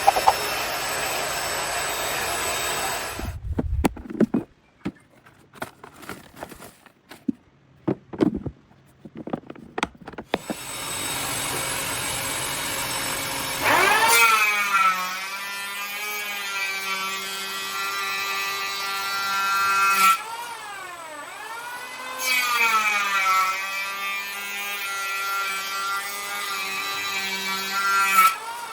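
Parkside PAWD 20-Li A1 20 V cordless wet/dry vacuum running with a steady rush of air. Its run is broken for several seconds by knocks and clicks of handling. It then comes back with a strong motor whine whose pitch dips and rises several times, as the suction load changes.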